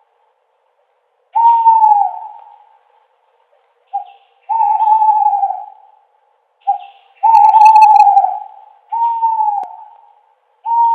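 An owl hooting: a series of hoots about every two seconds, each falling slightly in pitch and trailing off. Twice a long hoot is led by a short clipped note.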